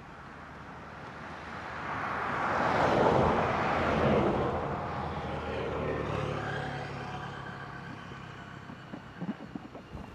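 A motor vehicle passes by, swelling to its loudest about three seconds in, then fading away with a falling pitch. A few light knocks come near the end.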